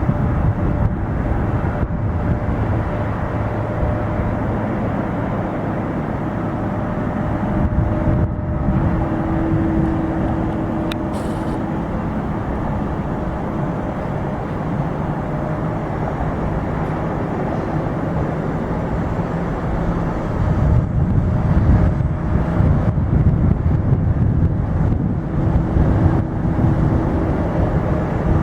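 Jet engines of a taxiing Boeing 747-400 at low power: a steady rumble with a faint whine, growing louder about two-thirds of the way through.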